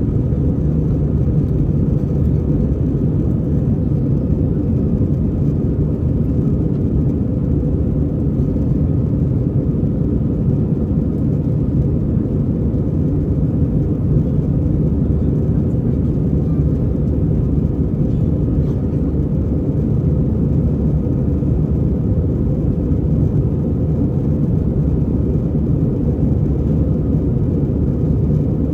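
Steady cabin noise inside an Airbus A320: an even low rumble of its engines and airflow that holds constant throughout.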